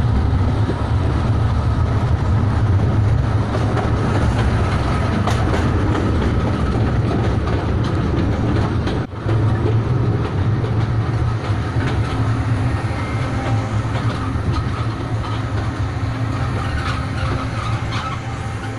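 Kurobe Gorge Railway narrow-gauge train, open trolley cars then closed coaches, rolling past with a steady low rumble of wheels on rails. The rumble dips briefly about nine seconds in and fades near the end.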